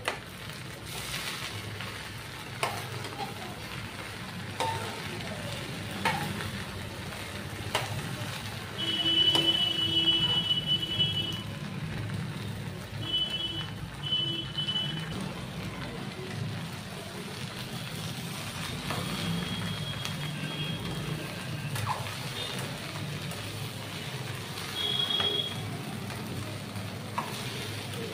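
Okra stir-frying uncovered on a high gas flame in a steel kadai: a steady sizzle with scattered clinks and scrapes as a steel ladle turns it. A short high-pitched tone sounds several times, loudest about ten seconds in.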